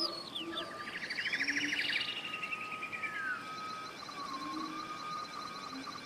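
Several forest birds singing at once: arching whistled notes, a fast trill about a second in that ends in a falling slurred whistle, and steady held whistled tones over faint background noise.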